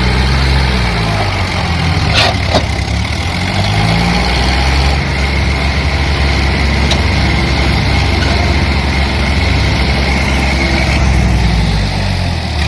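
Diesel tractor engine running hard, its low note rising and falling as it revs up and down. Two sharp knocks come about two seconds in.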